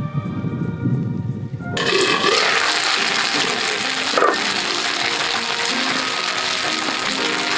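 Soft background music, then from about two seconds in loud steady sizzling of gyoza steam-frying in a frying pan, with one brief tap about four seconds in and the music continuing quietly underneath.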